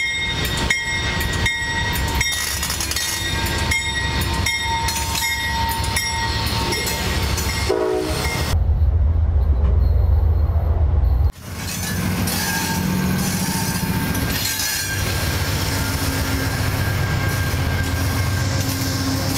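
Amtrak diesel locomotive's bell ringing steadily, about one stroke every three-quarters of a second, over the rolling of the arriving train. About nine seconds in it cuts to a heavy, muffled low rumble of the train passing directly overhead. A couple of seconds later it cuts again to Superliner passenger cars rolling past with wheel noise.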